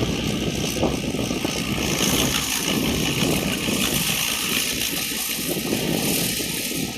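Rice combine harvester with an Isuzu 6M61 six-cylinder diesel engine running steadily, its engine rumble under a loud, even mechanical hiss.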